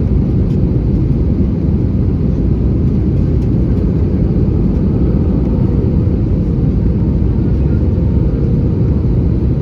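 Steady low rumble inside the cabin of an Airbus A320-214, the engines and airflow heard from a passenger seat, with no changes in level.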